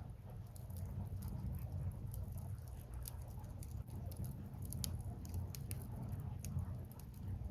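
Wood fire burning, crackling with frequent small sharp pops and snaps at an irregular pace over a low steady rumble.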